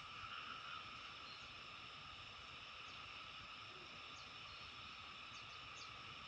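Faint, steady chorus of many small creatures calling in a continuous high trill, with a few short high chirps scattered through it.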